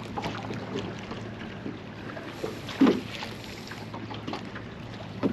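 Fishing boat sitting on the water: a steady low hum with scattered light knocks and clicks, and one short louder knock about three seconds in.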